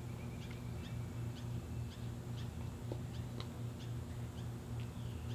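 Baby chicks peeping faintly: short high chirps, roughly two a second, over a steady low hum.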